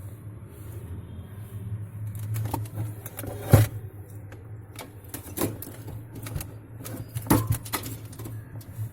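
Refrigerator compressor running with a steady low hum while the fridge gives no cooling, which the technician puts down to a refrigerant gas leak in the cooling coil. Scattered clicks and knocks sound over it, the loudest about three and a half seconds in.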